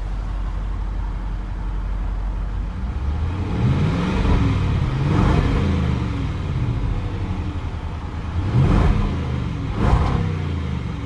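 Range Rover Sport SVR's 5.0-litre supercharged V8 idling with its sports exhaust open, then revved up and back down in short blips, twice near the middle and twice more near the end.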